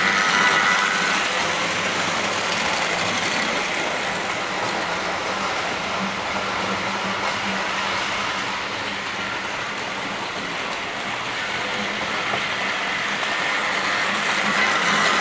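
OO gauge model freight train running around the track, a steady whirring rumble of motor and wheels that grows louder near the start and the end as it passes close by.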